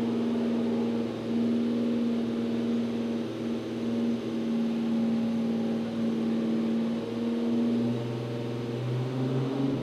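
A car engine running at steady, raised revs, held for several seconds. Its pitch climbs a little near the end.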